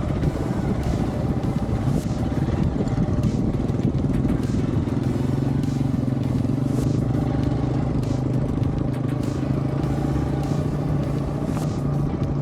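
Motorcycle engine running, with a steady engine note that settles in about five seconds in.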